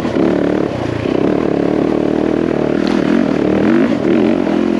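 Yamaha WR450F single-cylinder four-stroke dirt bike engine running under way on a trail, its pitch rising and falling with the throttle, with brief dips about a second in and again near the end.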